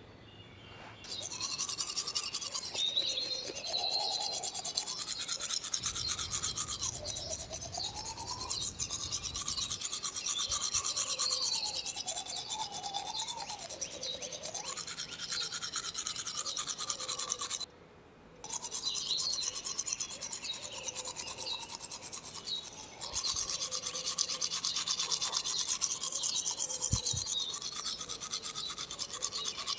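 Teeth being brushed with a toothbrush: fast back-and-forth scrubbing strokes, with the tone shifting as the brush moves around the mouth. It starts about a second in and stops briefly a little past halfway.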